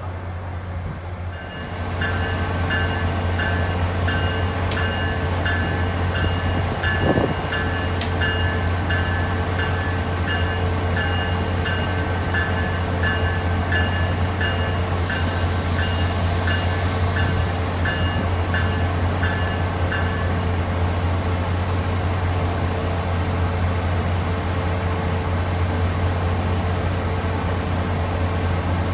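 SunRail commuter train at a station platform: a steady low hum from the train, with its bell ringing about twice a second until about twenty seconds in. A burst of air hiss comes at about fifteen seconds and lasts some three seconds.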